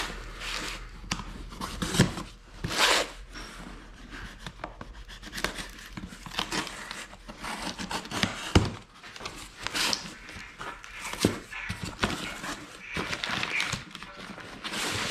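Hands working soap-lubricated rubber O-rings onto new diesel cylinder sleeves: irregular rubbing and short breathy swishes, with scattered light clicks and knocks of the parts being handled.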